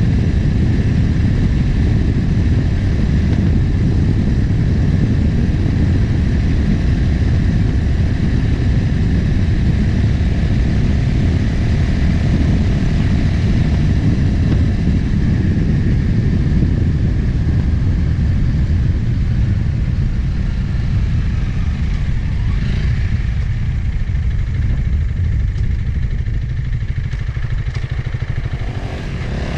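Motorcycle engine running at cruising speed, nearly covered by heavy wind rush on the camera microphone. Near the end the wind and engine ease off a little, as when the bike slows.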